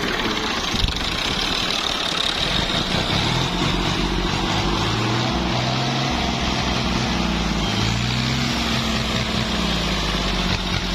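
Fiat 480 tractor's diesel engine running steadily at idle.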